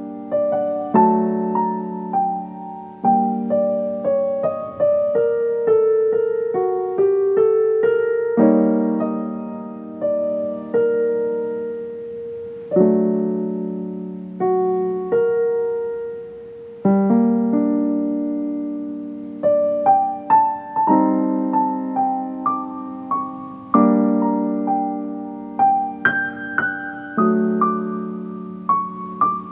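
Solo piano playing an unhurried instrumental piece: low chords held under a single melody line, each note struck and then ringing out and fading, with a new chord every couple of seconds.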